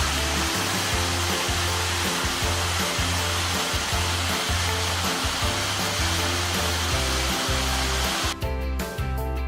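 Steady rush of falling water from a waterfall, with background music and a stepping bass line underneath. The water sound cuts off suddenly shortly before the end, leaving the music alone.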